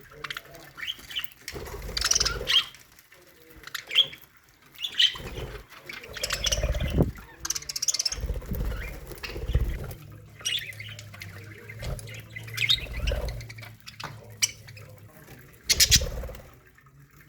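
A colony of budgerigars chattering, with many short high chirps and squawks overlapping, broken by bursts of low noise.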